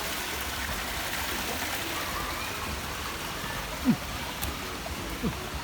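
Waterfall water rushing steadily, with faint voices behind it. Two short falling sounds stand out, about four seconds in and again a second later, the first the loudest moment.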